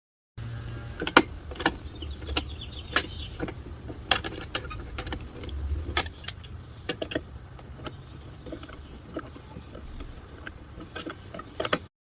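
Irregular sharp knocks and clicks, scattered through the clip and loudest about a second in, over a steady low rumble.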